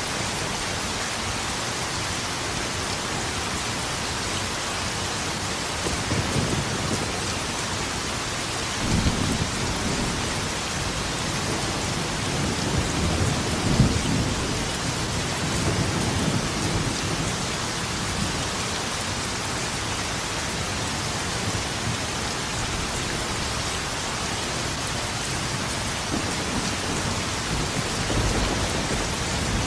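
Steady heavy rain with rolling thunder. Low rumbles swell up about six seconds in and again around nine seconds. A longer rumble builds from about 12 to 17 seconds, peaking with a sharper crack around 14 seconds, and one more rumble comes near the end.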